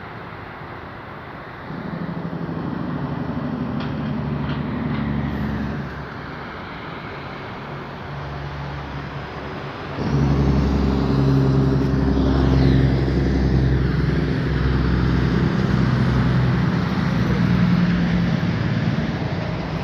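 Motor vehicle engines running loudly on the road below, a low steady engine note that swells about two seconds in and grows much louder about ten seconds in, its pitch shifting now and then.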